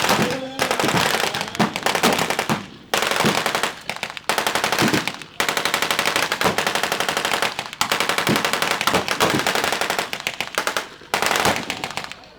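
Mock battle gunfire from WWII reenactors firing blanks: long, rapid machine-gun bursts mixed with other shots, broken by a few brief pauses.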